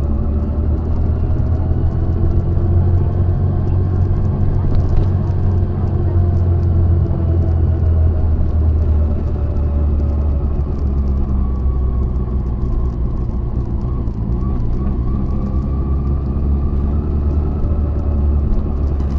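Honda CB400SF inline-four engine running under way, with its pitch rising and falling slowly as the revs change.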